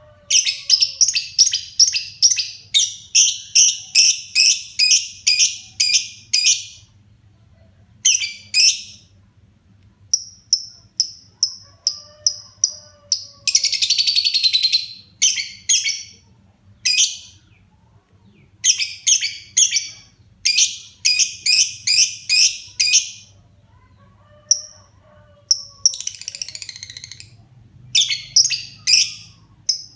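Lovebird singing in lively chatter: runs of sharp, high chirps at about two to three a second, broken by short pauses, with two longer continuous rattling trills, one near the middle and one later on.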